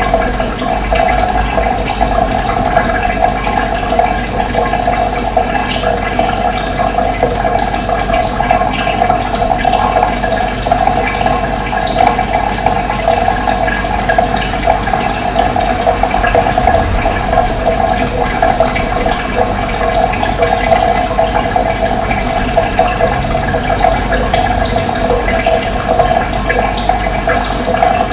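Running water, a steady rushing flow, with short bird chirps now and then.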